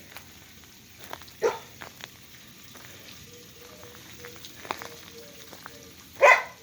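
A dog barking: three separate barks, the last, near the end, the loudest.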